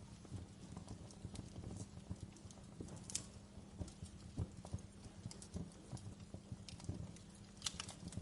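Wood fire burning in a fireplace: logs crackling with irregular small pops over the low rumble of the flames, with a couple of sharper pops about three seconds in and near the end.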